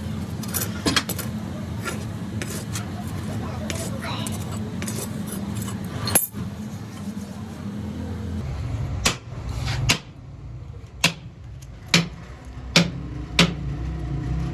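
Metal clinking and knocking over a steady low machine hum, with a sharp knock about six seconds in. In the second half there are half a dozen sharp metallic strikes, about a second apart, after the hum changes.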